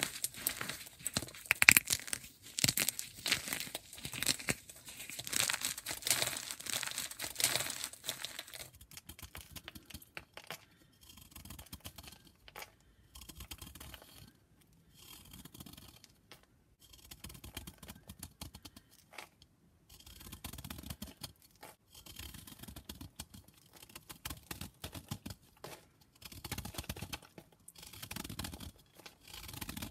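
Block of gym chalk being crumbled and scraped close to the microphone. Dense crackly crunching for the first eight or nine seconds, then softer, sparser scraping and crumbling with short pauses.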